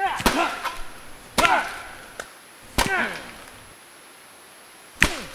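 Four sharp whacks, each followed at once by a short cry that rises and falls in pitch.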